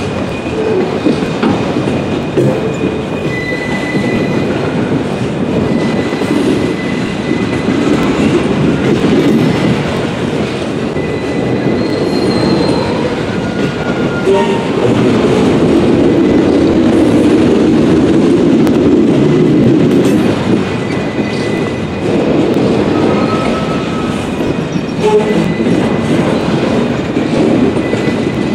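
Freight train of autorack car carriers rolling steadily past: the continuous rumble of steel wheels on rail, swelling a little past the middle. Brief high squeals from the wheels come and go.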